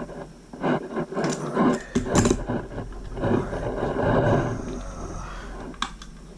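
Irregular clicks, scrapes and rustling of hands and tools handling parts while wiring a water heater's gas control.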